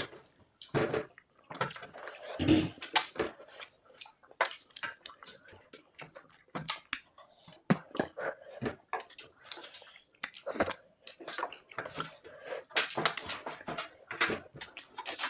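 Close eating sounds: irregular wet chewing, smacking and squelching of a fish curry and dal meal, a rapid scatter of small clicks with short pauses.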